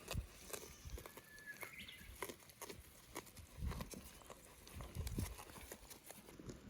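Goats moving about: faint scattered clicks and knocks of hooves, with a few dull thumps.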